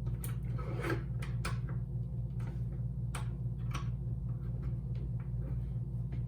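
Small clicks and light knocks of a door handle and lock mechanism being handled and fitted back on, over a steady low hum.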